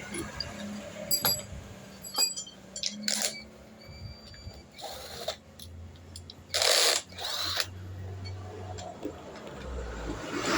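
Metal tools and parts clinking and knocking, with several short bursts of noise, the loudest about six and a half seconds in, over a low hum.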